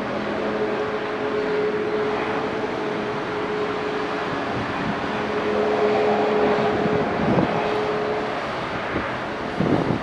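Boeing 737 jet engines during landing: a steady rushing noise with a held whine that fades out near the end, where wind gusts hit the microphone.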